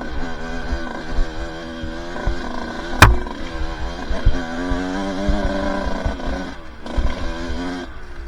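Two-stroke dirt bike engine running on a trail ride, its revs rising and falling with the throttle, with brief dips as the throttle is chopped. A single sharp knock comes about three seconds in.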